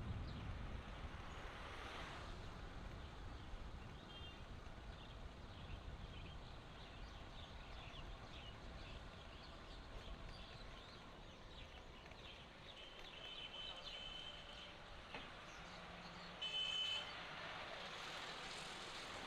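Faint road traffic noise with a low rumble that fades over the first few seconds, then a short vehicle horn toot near the end.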